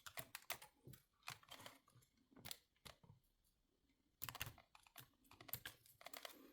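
Faint, scattered small clicks and taps of hands handling plastic parts and a circuit board, with a short pause about three seconds in.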